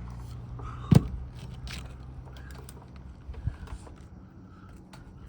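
A roofing hatchet drives a nail into an asphalt shingle with one sharp strike about a second in. A few fainter knocks follow.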